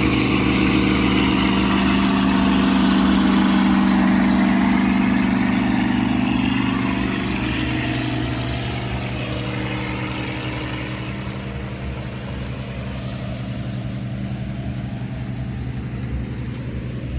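Combine harvester running steadily in a corn field, a constant engine drone that eases somewhat quieter about halfway through.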